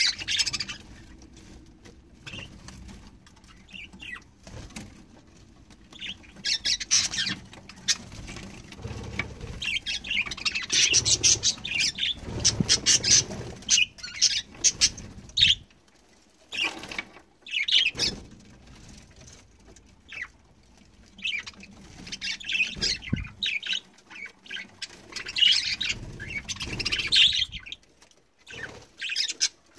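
Budgerigars chattering and squawking in bursts, with wing flutters.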